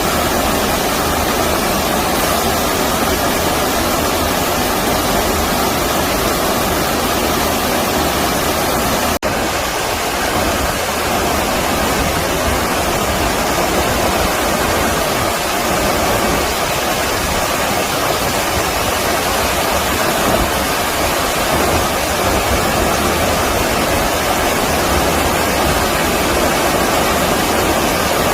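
Stream water rushing steadily, with a brief break in the sound about nine seconds in.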